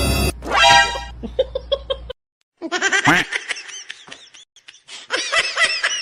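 Laughter in short, rhythmic, pitched bursts, broken by a brief silence.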